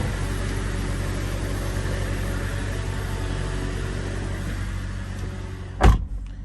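Steady running noise of a Toyota Crown heard from inside the cabin: a low hum under an even hiss. Near the end comes a single loud thump, after which the hiss drops away.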